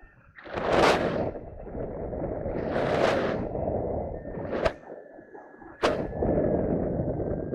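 Wind rushing over the microphone, swelling into two strong gusts about one and three seconds in, with two sharp knocks later on and a faint steady tone that comes in about halfway.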